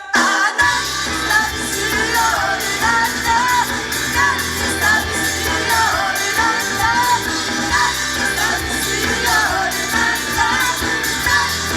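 Idol pop song performed live: sung vocals over a loud backing track, with the full beat and bass dropping back in about half a second in.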